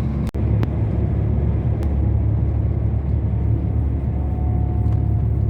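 Steady low rumble of a semi-truck's engine and road noise, heard from inside the cab while driving. There is a brief break in the sound about a third of a second in.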